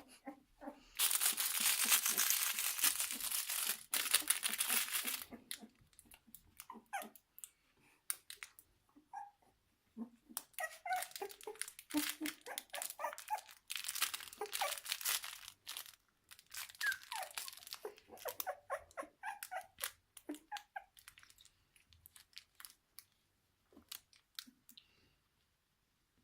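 Three-week-old kelpie puppies squeaking and whimpering in short, scattered cries, after a few seconds of loud crinkling rustle near the start.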